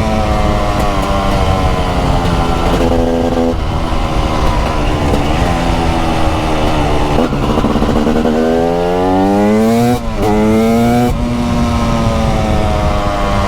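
TM SMR 300's 300cc two-stroke single-cylinder engine under way: the revs fall away at first, then climb hard about eight seconds in, dip briefly at a gearshift near ten seconds and climb again before settling into a steady, slowly easing note.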